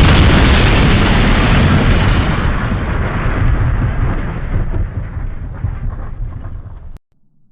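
A loud explosion-like boom: a rumbling roar that fades slowly over several seconds, then cuts off suddenly near the end.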